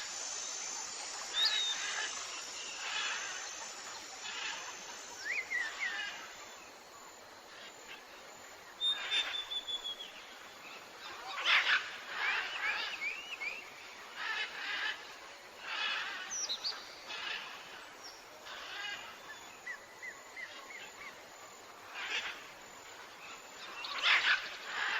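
Several tropical forest birds calling, with short chirps, trills and whistles coming at irregular intervals, some rising and some falling in pitch, over a faint steady hiss.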